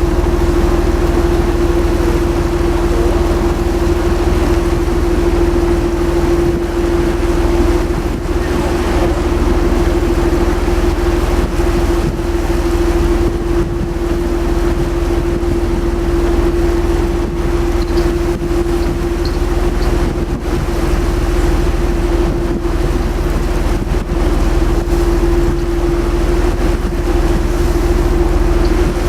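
Tour boat's engine running steadily underway: a constant hum with a low rumble over an even rush of noise.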